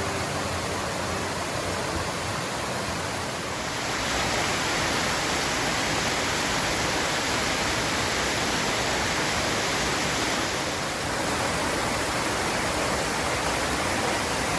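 Steady rush of flowing water, growing a little louder and brighter about four seconds in and easing back about eleven seconds in.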